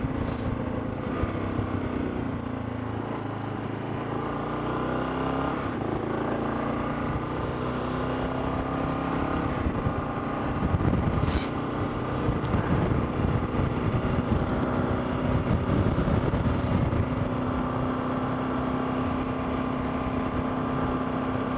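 Motorcycle engine running, its pitch dropping over the first few seconds and then holding steady, with a few faint clicks.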